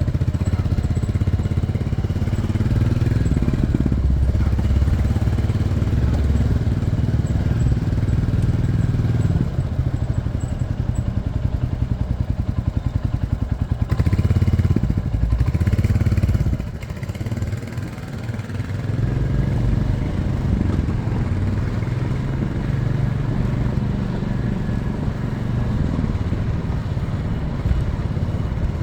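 Motorcycle engine running during a ride. From about ten seconds in it settles into a slower, even beat at a lower level. It rises again at about fourteen seconds, drops off sharply at about seventeen, and picks back up a couple of seconds later.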